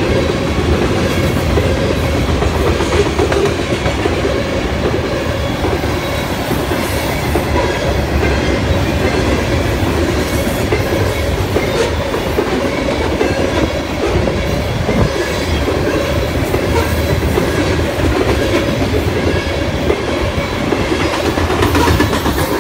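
Loaded grain-train freight cars rolling steadily past, steel wheels clicking over the rail joints amid a continuous rumble and rattle.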